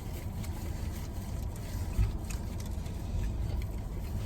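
Steady low hum of a car engine idling, heard inside the cabin, with faint small clicks and rustles. A dull thump comes about two seconds in.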